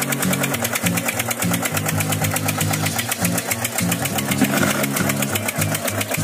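Small diesel engine chugging steadily with a fast, even beat, the running sound of a miniature tractor-mounted water-pump engine.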